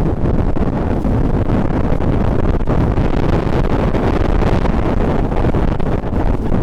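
Strong wind buffeting the microphone despite its furry windshield: a loud, steady low rumble with no break.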